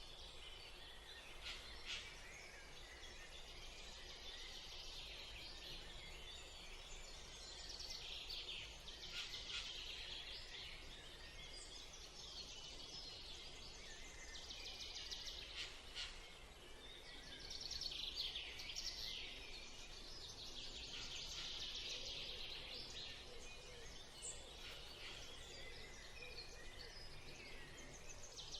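Birds chirping and calling in repeated bouts over a faint steady outdoor background, with a few sharp clicks.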